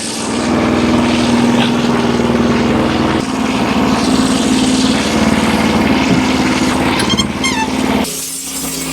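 Small gasoline engine running steadily, its pitch shifting slightly about three seconds in, with a brief run of high ticks near the end.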